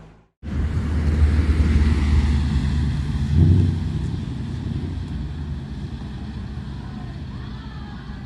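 BMW M4 CS's twin-turbo inline-six running hard as the car passes, loudest about three and a half seconds in, then fading steadily as it moves away.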